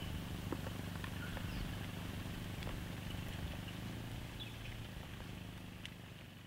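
The 2016 Lexus RC 200t's 2.0-litre turbo four-cylinder idling after a stop, a low steady hum. It fades out near the end.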